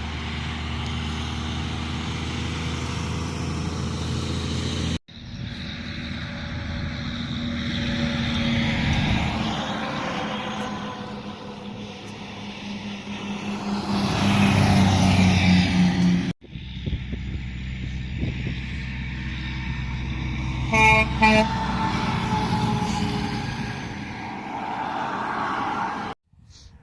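Heavy trucks going by on a highway in several separate clips, diesel engine and tyre noise swelling and fading with each pass. About 21 seconds in, a horn gives two short blasts.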